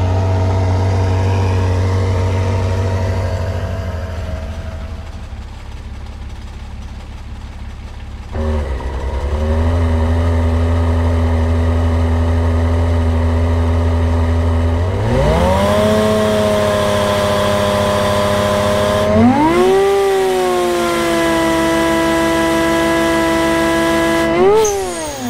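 Supercharged Mazda MX-6 engine drawing through a front-mounted cold air intake, loud at the intake opening. It idles, then is revved up and held at three successively higher engine speeds, each step a rising pitch followed by a steady hold, and near the end it is blipped once more and drops back.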